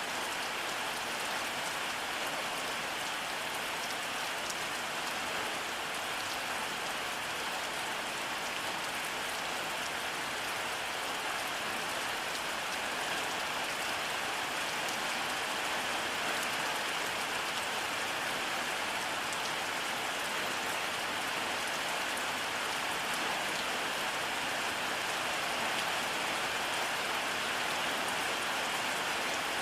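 Steady rainfall: an even, dense hiss of rain on a surface with a fine patter of drops, without any thunder.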